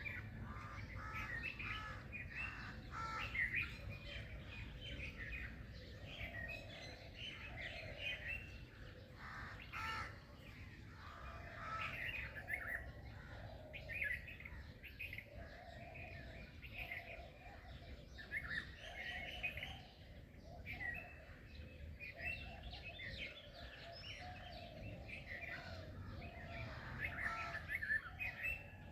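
Dawn chorus of many small birds chirping and singing, with short, quick notes overlapping throughout, over a steady low background rumble.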